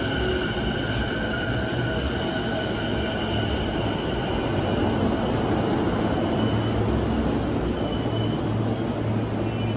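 JR Chuo Line E233 series electric commuter train rolling past along the platform: a steady low rumble of wheels on rail with a steady high-pitched whine over it.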